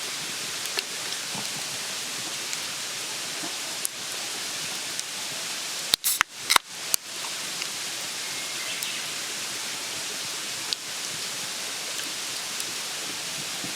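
Food sizzling steadily in a pan over a campfire, with a quick run of sharp clicks about six seconds in.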